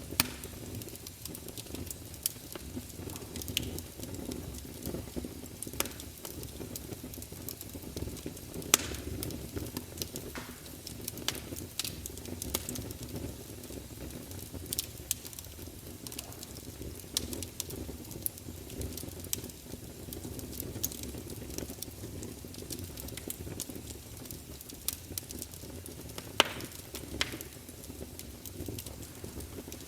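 Campfire burning: a steady low rumble and hiss of flames with irregular sharp pops and crackles, a few louder snaps about 9 seconds in and near the end.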